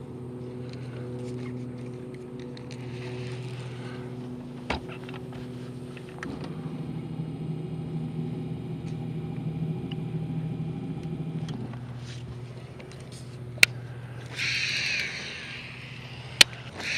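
Steady boat-motor drone with a low hum and its overtones; the pitch rises for about five seconds midway, then settles back. A few sharp clicks sound through it, and a harsh bird call comes near the end.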